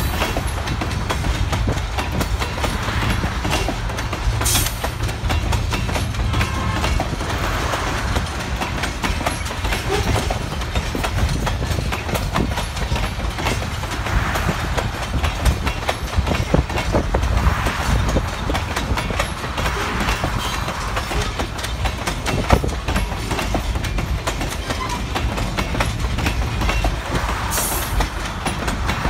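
A string of CSX open-top rock hopper cars rolling past close by: a steady low rumble with the clickety-clack of wheels over the rail joints.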